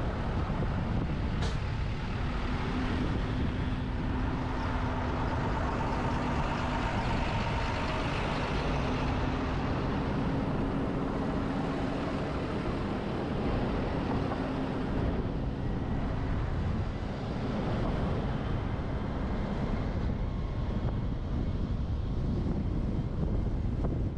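Steady road and wind noise from a moving truck, picked up by a camera on its roof: tyre and engine drone with a faint steady hum through the middle, and one sharp click about a second and a half in.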